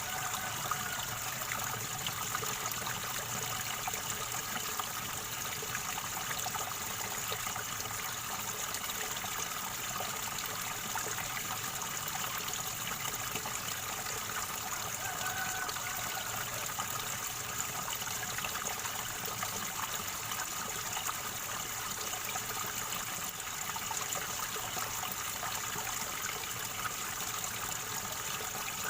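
River water gurgling and trickling steadily.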